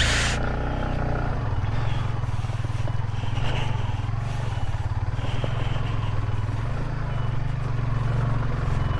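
Yamaha Vixion motorcycle's single-cylinder engine running at low, steady revs as it climbs slowly over a rocky track, with light rattles and scrapes from the bike.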